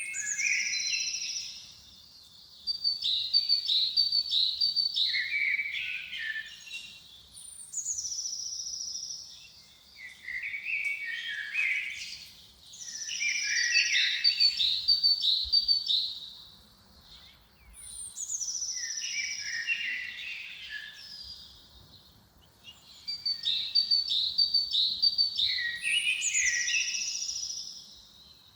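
A songbird singing the same phrase four times: each one opens with a high falling whistle, then a quick run of chirping notes that steps down in pitch, with short pauses between phrases.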